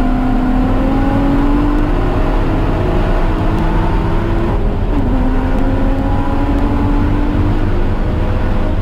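Car engine accelerating on track under full load, its pitch climbing steadily through each gear. The pitch drops abruptly at an upshift about halfway through and again near the end, with steady wind and road rush underneath.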